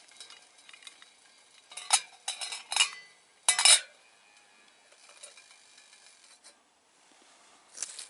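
Metal camping cookware clinking and rattling as it is handled: several clinks about two seconds in, a louder rattle a little later, and another clink near the end.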